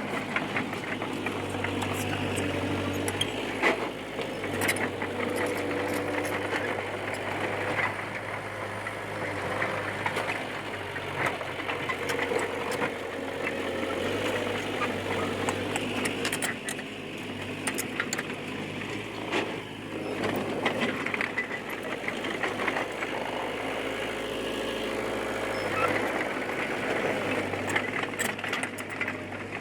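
D20P bulldozer working, its diesel engine running steadily and changing pitch under shifting load every few seconds, with frequent clanks and squeaks from the tracks and blade.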